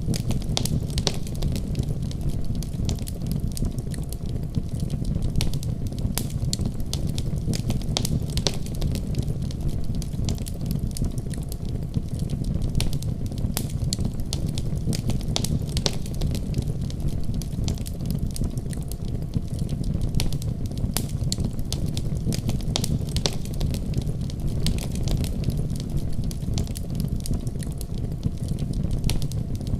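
Wood fire burning in a fireplace: a steady low roar with frequent irregular sharp crackles and pops.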